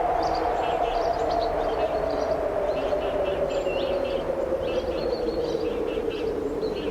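Strong wind blowing steadily, with a low moaning tone that drifts slowly in pitch, while birds chirp in many short, quick calls over it.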